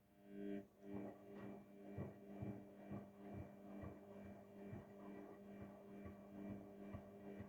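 Haier 7.5 kg front-loading washing machine on a delicate wash cycle, its drum motor starting up after a pause: a steady motor hum begins, with soft rhythmic thumps about twice a second as the drum turns the wash.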